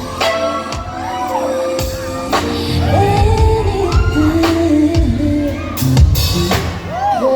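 Live concert music: a woman singing a slow R&B song over a band, with bass and regular drum hits.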